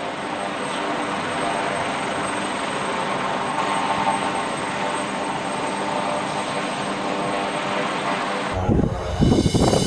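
Steady aircraft engine noise, fading in at the start, with a thin high whine running through it. About a second before the end it cuts off abruptly and music begins.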